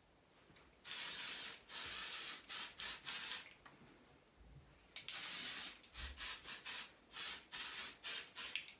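Aerosol can of Hair by Sam McKnight Lazy Girl dry shampoo spraying onto hair in hissing bursts: a long spray and a string of quick puffs, a pause of about a second and a half, then another long spray followed by many short puffs.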